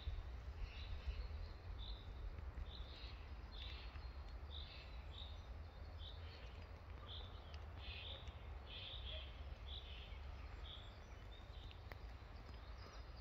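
A songbird repeating short high chirps, about two a second, some in quick pairs, over a low steady rumble.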